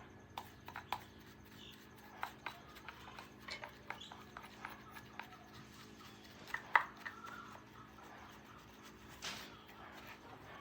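Scattered light clicks and taps of hand tools and small parts being handled during a chainsaw repair, at irregular intervals, over a steady low hum; the sharpest tap comes a little before the middle.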